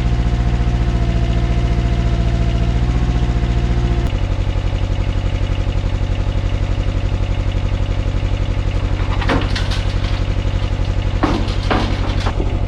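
Mini excavator engine running steadily with an even pulsing beat while it pulls a dead skid steer, its note shifting about four seconds in. A few short squeaks come in near the end.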